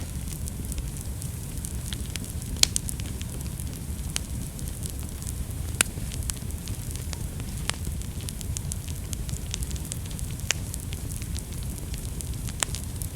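Wood fire burning with a steady low rumble and scattered sharp crackles and pops, two of them louder, about a third and halfway through.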